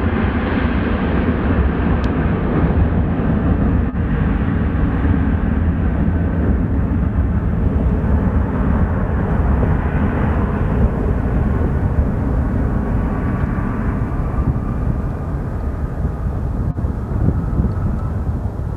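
Airplane passing at an airport, its engine noise slowly fading and dropping in pitch as it moves away, over a heavy low rumble of wind on the microphone.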